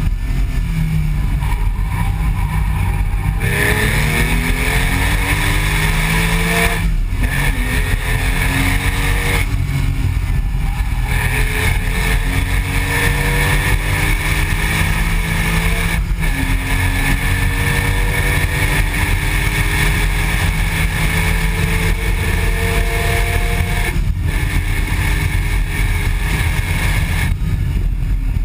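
Porsche 997.1 911 flat-six exhaust, recorded from a rear-bumper camera, pulling hard with rising pitch through several upshifts and brief lifts. A raspy edge runs through it; the owner is unsure whether the rasp is the exhaust or noise in the recording.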